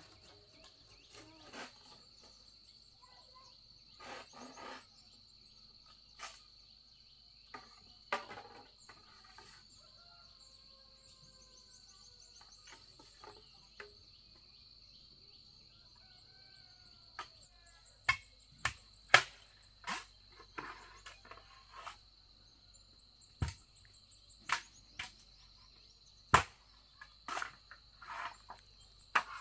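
A steady high-pitched drone of insects, with faint bird chirps in the middle. From about two-thirds of the way through, a series of loud, sharp, irregular knocks.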